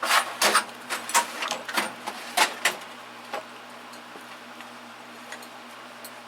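Small metal tools clinking and clattering as they are handled and set into a toolbox drawer: a quick run of sharp knocks over the first few seconds, then a steady low hum with only a few faint ticks.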